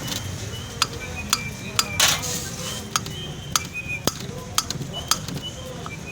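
Sharp metal clinks and taps of hand tools and parts being handled on a Suzuki Bolan engine during an overhaul, one or two a second, with a louder scraping burst about two seconds in.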